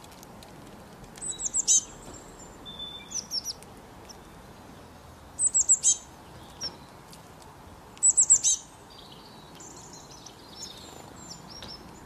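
Small birds calling: quick bursts of four or five high chirps, the three loudest bursts about three seconds apart, with softer calls between them.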